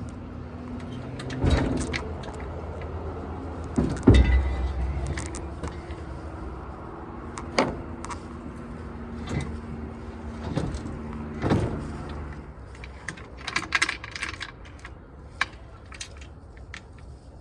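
Metal clanks and knocks as an engine hoist and its chain are worked against an engine block, the loudest about four seconds in, over a low steady hum. Near the end comes a quick jingling rattle, like a chain or keys being shaken.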